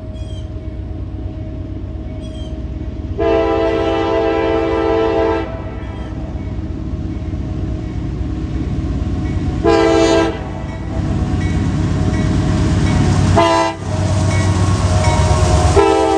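A freight train's locomotive air horn sounds over the steady rumble of the diesel locomotive. There is one long blast about three seconds in, a short blast around ten seconds, a very brief one just after thirteen seconds, and another long blast beginning near the end.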